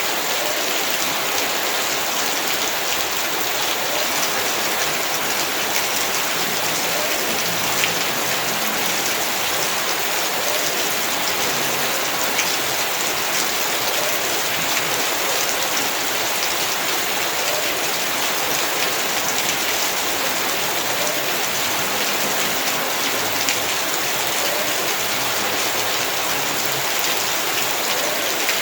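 Heavy rain falling steadily: a dense, even hiss with many individual drops tapping through it.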